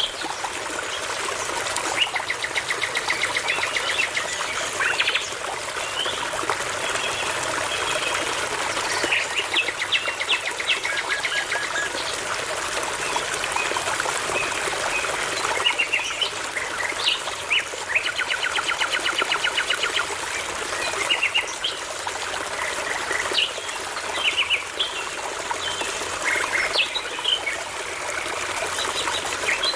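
Songbirds singing phrase after phrase of rapid trills, whistles and chirps over the steady rush of a babbling brook.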